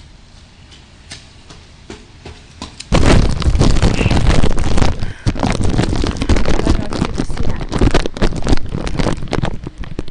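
Faint scattered ticking of raindrops, then about three seconds in a sudden loud, crackling rush of noise on the microphone that keeps going: rain and wind hitting the camera's microphone.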